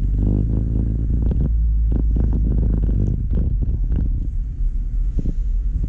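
Truck engine running at low speed with a steady low rumble, with scattered light clicks and knocks on top.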